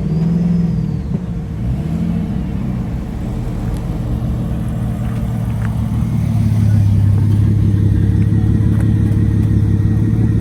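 Muscle car engine blipped twice, its pitch rising and falling, then running steadily and louder from about six seconds in.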